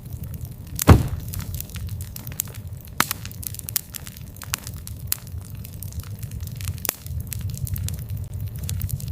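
Wood campfire crackling, with irregular sharp pops and a loud snap about a second in, over a steady low rumble.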